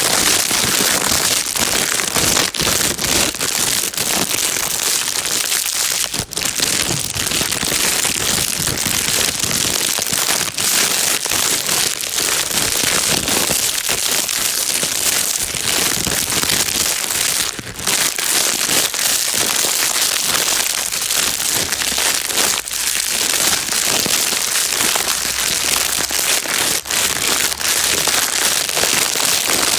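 Plastic bag being crinkled and crumpled without a break: a dense, steady crackling hiss, strongest in the highs, with only brief dips. It is the kind of crinkle played as white noise to calm a crying baby.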